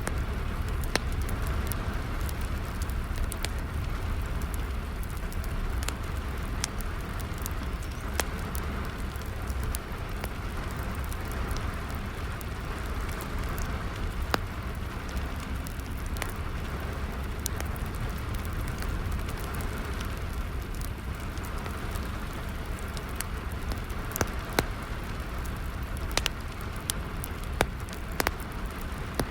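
Steady rain falling together with a fire crackling, its sharp pops and snaps scattered irregularly over the even hiss of the rain and coming more often near the end.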